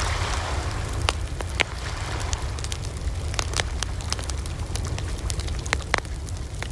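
Wood campfire crackling, with sharp pops and snaps scattered irregularly over a steady low rumble.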